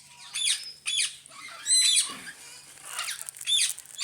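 Parrots calling in an aviary: about five short, high-pitched squawks, the loudest near the middle.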